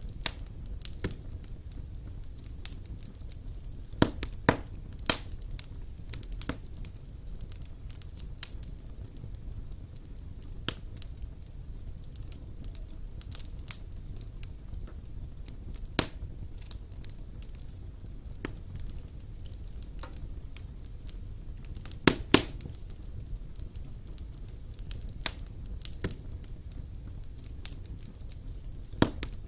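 Wood fire burning in a fireplace: a low steady rumble of flames with irregular crackles and sharp pops from the burning logs, the loudest pops about four, sixteen and twenty-two seconds in.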